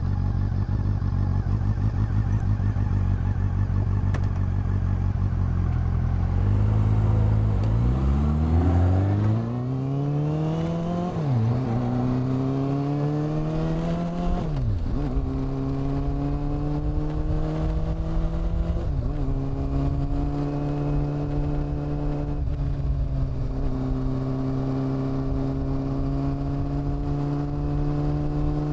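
Honda CB400 Super Four's inline-four engine and exhaust, running low and steady, then pulling away with a rising note. The note drops sharply twice, at two upshifts, about eleven and fifteen seconds in, before the bike settles into a steady cruise.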